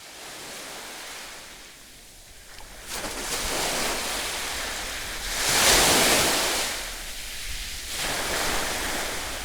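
Ocean surf: waves breaking and washing in, in swells, with the heaviest crash about six seconds in.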